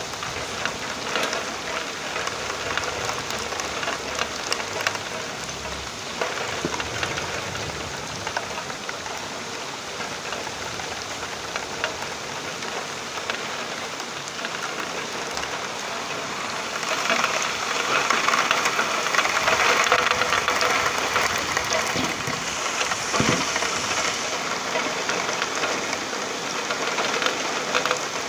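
Steady rain falling, a continuous patter and hiss of drops. It grows heavier for several seconds past the middle, then eases back.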